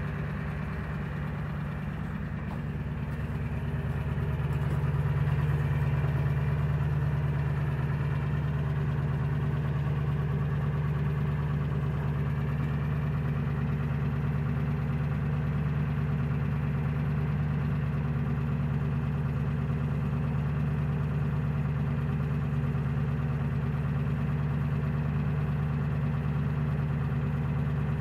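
Ford 7.3 Power Stroke turbo-diesel V8 idling steadily, still cold after a start at minus 8 °C. It grows a little louder about four seconds in, then holds an even idle.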